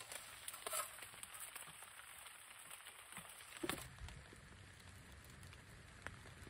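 Light rain pattering on a clear plastic-wrap shelter, faint, with a few soft clicks. About halfway through, the patter turns fuller and lower.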